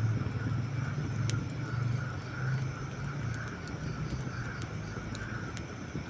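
Wood campfire burning, with a few sharp crackles and pops, the clearest about a second in. Under them runs a steady low rumble that is louder than the crackling.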